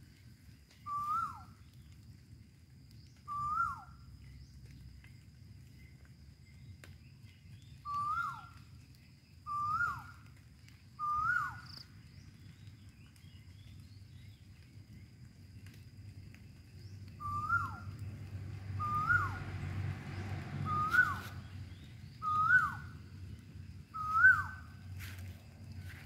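A bird repeating one short whistled call about ten times at uneven intervals. Each call is a brief note that rises and then drops sharply. There is a faint steady high tone in the background.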